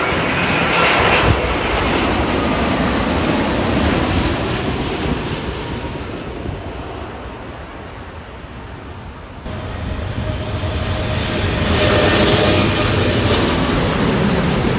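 Jet airliners passing close by, their engines a loud rushing noise with faint falling tones. The first pass fades out, then an abrupt cut about nine and a half seconds in brings a second jet that swells to its loudest near the end.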